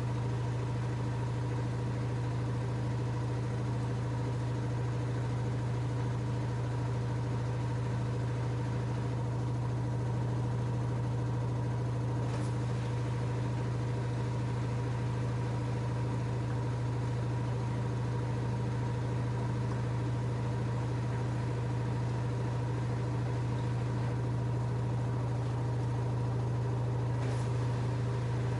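LG F10A8HDS5 front-loading washing machine running with a steady, even hum, its drum turning at a constant speed as in a spin, with two faint ticks along the way.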